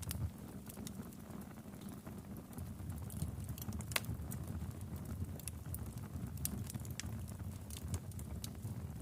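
Wood fire in a fireplace crackling: a steady low rumble of flames with irregular sharp crackles and pops, one louder pop about four seconds in.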